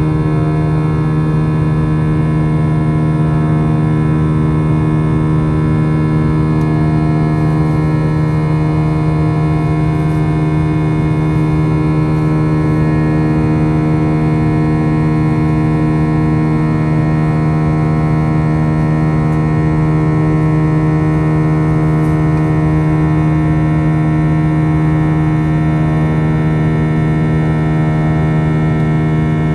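Airbus A321's IAE V2500 turbofan engines running at a steady setting, heard from inside the passenger cabin: a constant drone made of many steady tones over a rushing noise.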